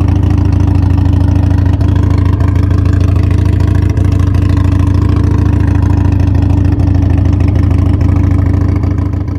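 Harley-Davidson Sportster Iron 883's air-cooled V-twin idling steadily through an SPC cutback 2-into-1 exhaust, fading out near the end.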